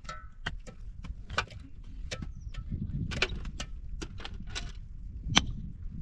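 A dozen or so irregular sharp knocks and clicks, as of things being handled or struck, over a steady low rumble; the loudest knock comes near the end.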